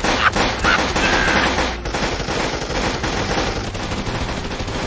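Dense, rapid, continuous rattling, like a machine-gun-fire sound effect, with a short whistle-like tone about a second in.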